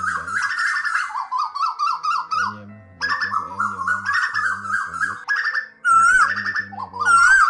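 Asian koels calling, male and female: bursts of rapid, chattering repeated notes, with a couple of arched, rising-and-falling notes near the end.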